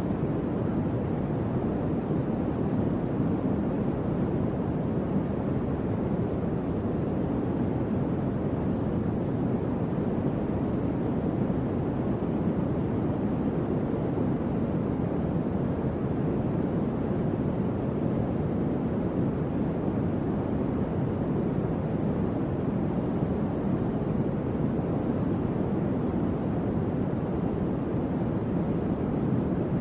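Electric fan running steadily: an even, low whooshing rush of moving air with no tones, clicks or changes.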